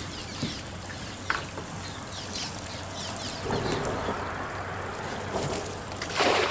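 A cast net thrown from a boat lands on the water with a splashing rush near the end, over many short, high bird chirps.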